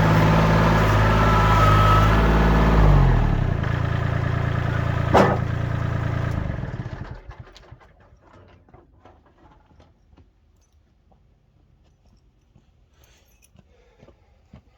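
Kubota L2501 compact tractor's three-cylinder diesel engine running steadily, then about three seconds in dropping in speed and shutting off, with a fading run-down. A single sharp click comes about five seconds in, and from about seven seconds on it is near quiet apart from faint small ticks.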